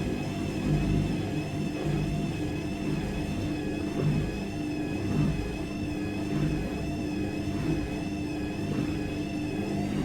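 Washing machine running: a high motor whine that wavers slightly up and down about once a second, over a low, unevenly pulsing rumble from the drum.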